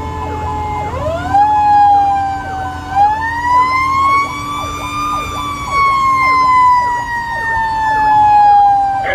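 Fire engine's siren wailing: the pitch rises about a second in, climbs again from about three seconds to a peak near five seconds, then slowly falls. A fainter, faster-cycling siren and a low truck rumble run beneath it.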